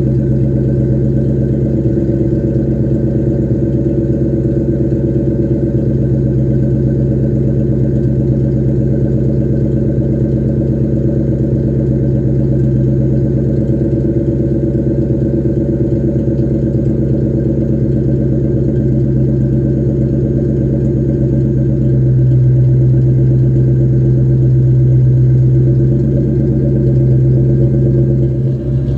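Ford Mustang GT's 4.6-litre two-valve V8, with a cat-back exhaust, idling steadily while warming up after a cold start. It gets a little louder for a few seconds in the later part and dips briefly near the end.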